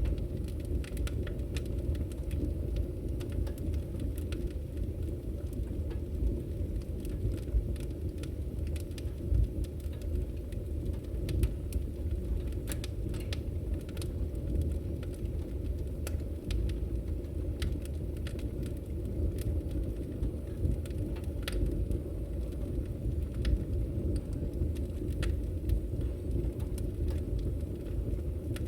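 Firewood burning: a steady low rumble from the fire with frequent irregular crackles and pops from the logs.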